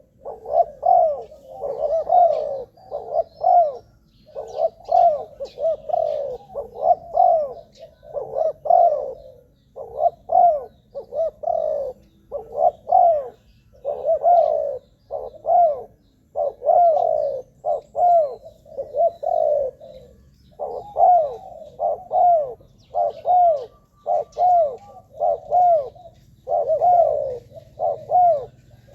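Spotted dove cooing over and over, low arching coos strung in quick phrases of several notes with short gaps between phrases.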